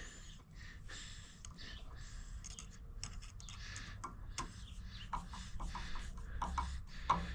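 Faint, scattered clicks, taps and short scrapes of hands working small parts, over a steady low hum.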